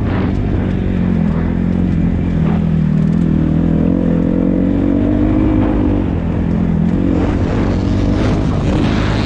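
Dirt bike engine running under load as it is ridden, its pitch climbing for a few seconds and then falling back about six seconds in, with wind noise across it.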